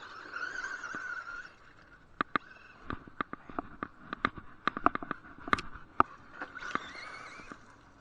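A 1/8-scale RC buggy with a brushless motor, running on a 3S battery, driving: a wavering electric motor whine at the start, then a run of sharp irregular clicks and knocks as the buggy bounces over the track, and a rising whine again near the end as it accelerates.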